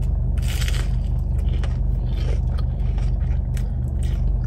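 A crunchy bite into a breaded, fried plant-based 'not chicken' sandwich about half a second in, followed by chewing with smaller crunches. A steady low hum from the idling car runs underneath.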